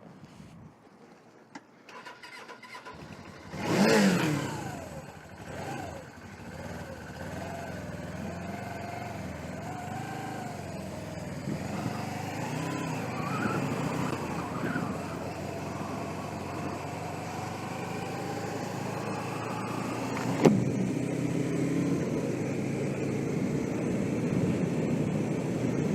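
Suzuki GS500E's parallel-twin engine starting about four seconds in, then running with its pitch rising and falling as the motorcycle pulls away and picks up speed. There is a sharp click about twenty seconds in, and wind noise builds near the end.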